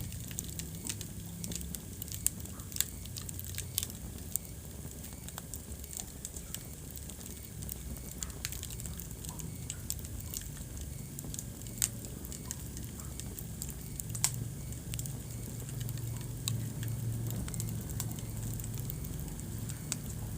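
Wood fire burning in a fireplace, crackling with frequent irregular sharp pops, a few louder than the rest, over a low steady rumble of the flames.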